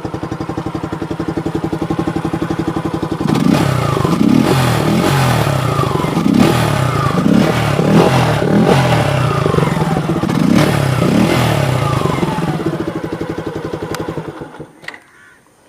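Suzuki Gixxer's single-cylinder engine, with a cap by the air filter removed to make it louder, idling with a steady thump. From about three seconds in it is revved in a quick series of blips, each rising and falling, until it cuts off near the end.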